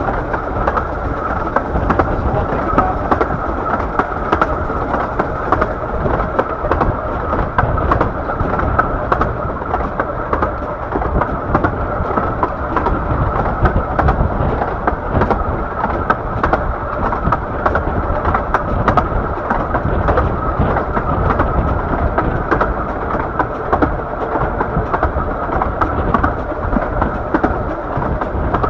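Steady rumble and rattle of a 15-inch gauge miniature railway train running along the track, heard from on board, with many small clicks throughout.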